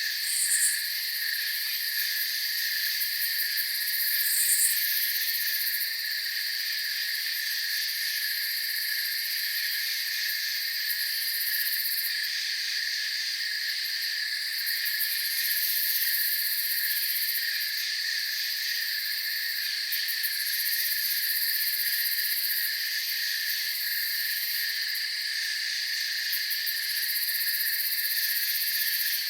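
Night chorus of crickets and other insects trilling steadily at several pitches at once, with two short, higher chirps about half a second and four and a half seconds in.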